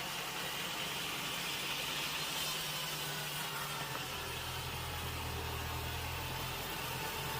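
Sawmill machinery running steadily, with a deeper hum coming in about four seconds in and easing off near the end.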